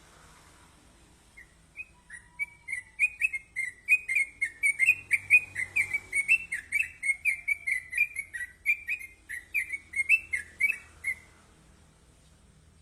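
A yellow-vented bulbul (trucukan) singing a fast, continuous run of short chirping notes, about five a second, for roughly ten seconds.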